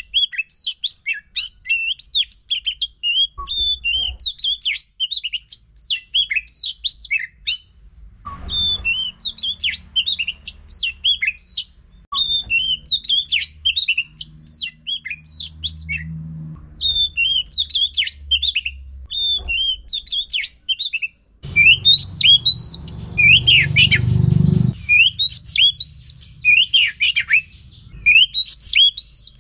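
Oriental magpie-robin (kacer) singing a continuous run of rapid, varied chirps and whistles. A low rumble sits under the song twice, louder the second time.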